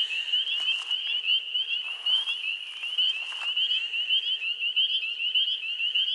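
A chorus of frogs calling at a pond: many high-pitched peeping calls overlapping into a continuous chorus, the males singing to attract mates.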